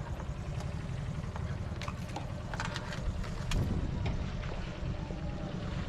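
Yamaha FZ-X motorcycle's single-cylinder engine running as it is ridden slowly, a steady low rumble with wind on the microphone and a few light clicks.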